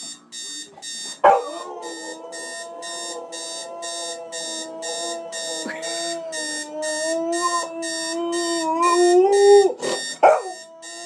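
Alarm clock beeping rapidly, about two high beeps a second, while a dog howls at it. The howl is one long, drawn-out howl of about eight seconds that rises a little in pitch toward its end. It breaks off into a short, sharp yelp near the end.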